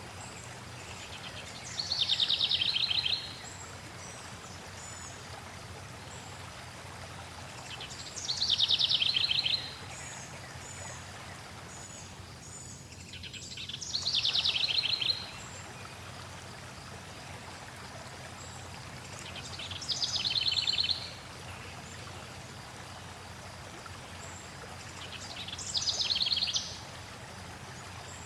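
A songbird repeats the same short trilled song five times, about every six seconds, over a steady rush of flowing stream water, with faint high chirps in between.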